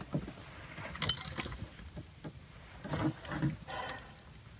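Scattered metallic clinks and knocks of hand work with metal hardware: a sharp clink about a second in and a cluster of knocks around three seconds in.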